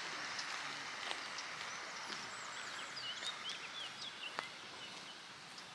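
Small birds chirping: a run of short, high calls about halfway through, over a steady outdoor background hiss with a few faint clicks.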